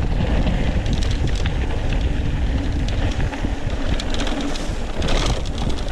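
Steady wind rush buffeting the microphone of a motorcycle on the move in the rain, with a faint steady engine hum underneath and scattered light ticks.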